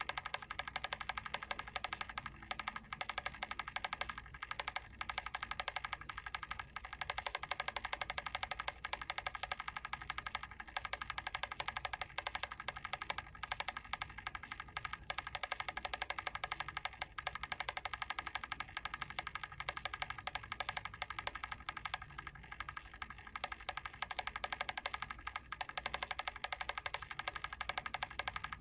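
Mechanical timer ticking rapidly and evenly, a steady run of small clicks with a faint low hum beneath.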